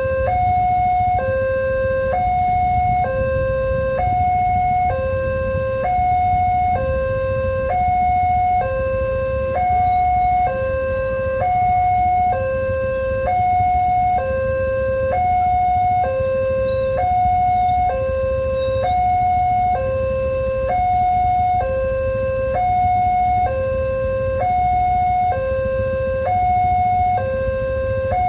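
Railroad level-crossing warning alarm sounding its steady two-tone signal, a higher and a lower tone alternating evenly about every 0.8 seconds, warning that a train is approaching. A continuous low rumble runs underneath.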